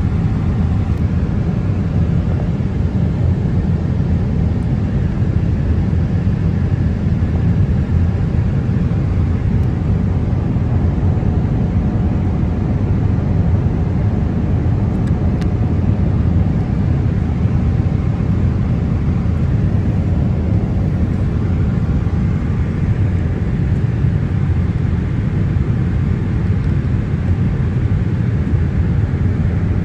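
Steady, loud cabin noise of a Boeing 777-300 in cruise flight: a deep, even rush of engine and airflow that does not change.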